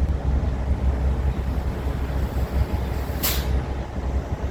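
Steady low outdoor rumble with a short, sharp hiss a little after three seconds in.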